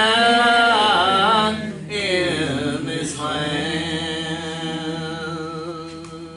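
Gospel hymn singing: long held sung notes that waver and slide in pitch, the first breaking off about a second and a half in and a second one held until near the end.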